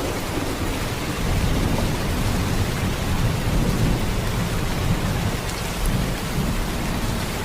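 Heavy rain in a steady, even downpour: a dense hiss with a deep low rumble underneath.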